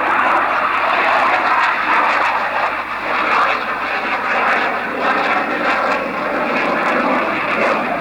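Fixed-wing aircraft engine noise: a steady, loud rushing drone with no clear changes.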